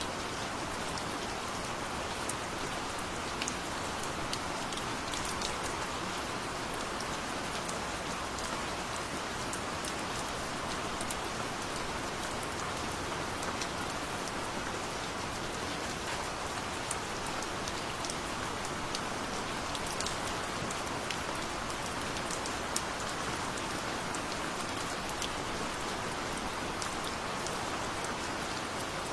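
Steady rain falling, an even hiss with many small drops ticking distinctly on a surface.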